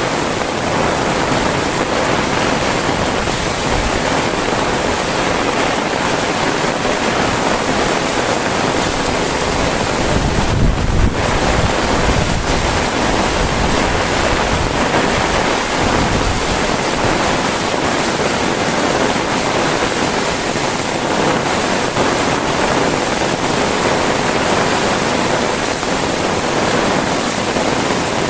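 Heavy rain falling steadily, a dense even hiss, with a brief low rumble about ten seconds in.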